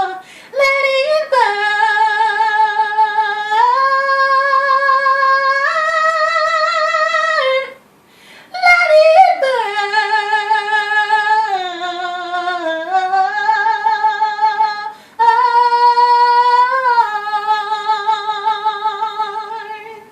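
A woman singing unaccompanied: long held notes with a slight vibrato that step up and down in pitch, in three phrases with short breaks between.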